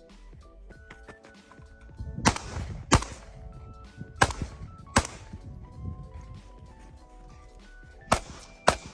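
Glock 19 pistol firing six shots in three quick pairs, each pair under a second apart, with a gap of about three seconds before the last pair. Background music plays underneath.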